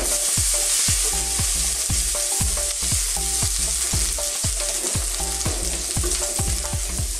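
Chopped garlic and ginger sizzling in melted butter in a hot wok, stirred with a wooden spatula. The sizzle gets louder as the stirring begins.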